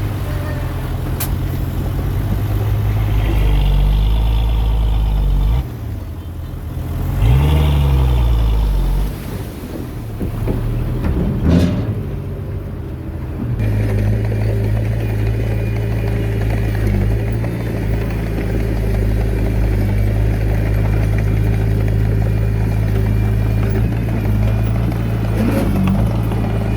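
Heavy diesel engine of earthmoving machinery running steadily, revving up and down a few times in the first third. A sharp knock comes about eleven seconds in, and the engine settles back to a steady run.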